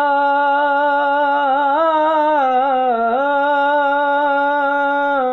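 A single voice singing a Punjabi naat, holding one long drawn-out note at the end of a line. The pitch wavers a little in the middle, then the note cuts off suddenly near the end.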